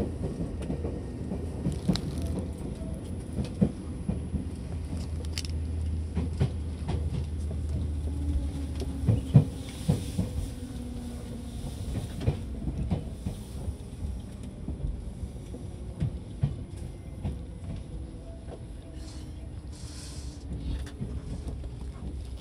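Inside a Seibu Red Arrow limited express car standing at its terminus: a low steady hum from the train's equipment that weakens about eight seconds in, with scattered clicks and knocks throughout.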